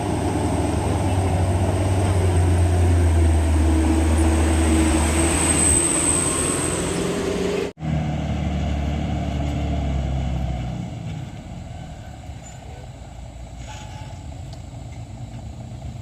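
Heavy diesel truck engine running hard under load, a deep steady drone that fades away about ten seconds in, leaving quieter traffic noise.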